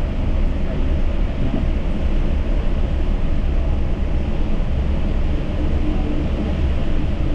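Yurikamome Line automated train running, heard from inside the car: a steady low rumble of its rubber tyres on the concrete guideway. A faint steady hum comes in near the end.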